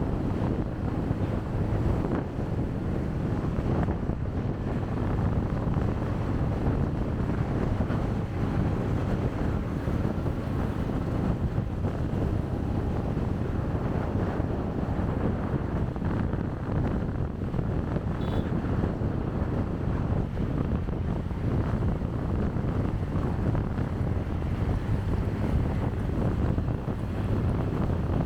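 Wind rushing over the microphone of a chest-mounted camera on a moving motorcycle: a steady, dense low rumble of wind buffeting mixed with engine and road noise.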